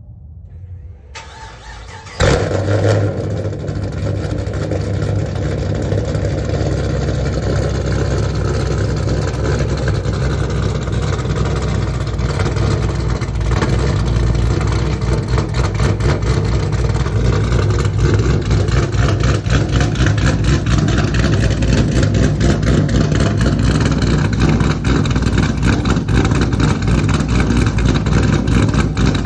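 Chevrolet Camaro SS V8 with an F35 cam and straight-pipe exhaust: a short crank, then it fires about two seconds in and settles into a loud, uneven, pulsing idle.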